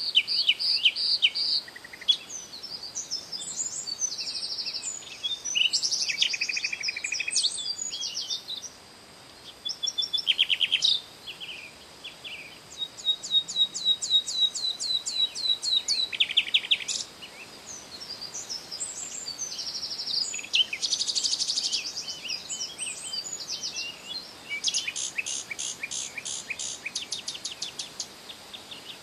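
Several songbirds chirping and singing, with quick chirps mixed with fast rattling trills and runs of rapid rising notes. A short pause comes about a third of the way in.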